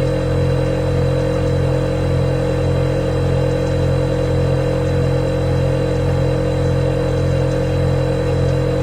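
Refrigerator running with a steady hum: a low drone with a higher hum above it and a faint high whine over the top.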